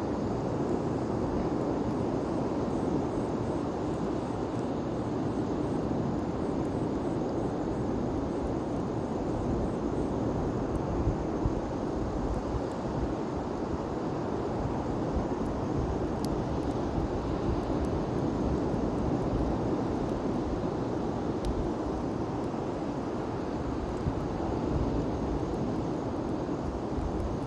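Large bonfire burning: a steady rushing roar with a couple of faint crackles.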